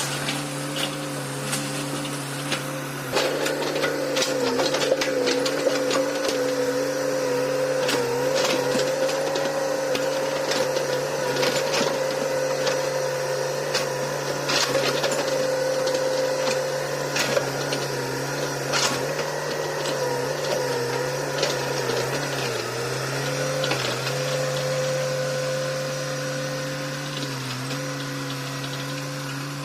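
Hitachi hydraulic excavator working: its diesel engine runs steadily, getting louder about three seconds in as it takes load. The pitch sags briefly a few times later on, and scattered knocks and clanks come from the bucket and machine.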